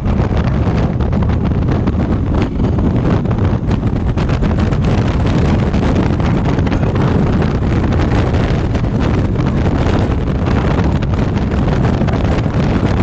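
Heavy wind noise buffeting the microphone of a motorcycle ridden at speed, with the Honda African Twin's engine and road noise running steadily underneath.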